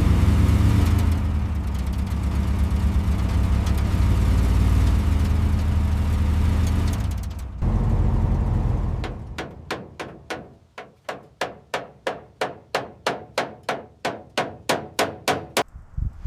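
A motor or engine running steadily with a deep low hum, cutting in suddenly and dying away about nine seconds in; then a run of even, sharp knocks, about three or four a second, like rapid hammer strikes.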